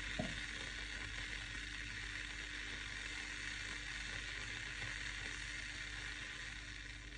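Bear 300 ml electric travel kettle heating water: a steady faint hiss over a low hum, with a brief tap just after the start.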